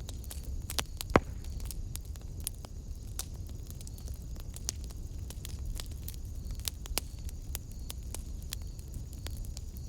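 Wood fire burning in a fireplace, crackling with irregular sharp pops over a low steady rumble; one louder pop about a second in.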